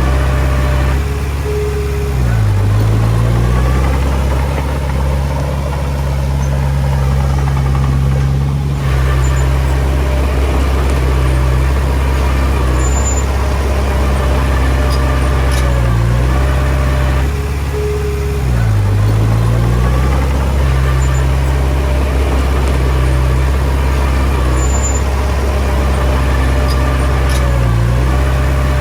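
Diesel engine of a Komatsu D20P bulldozer running steadily under work. Its pitch dips briefly a few times as the load changes.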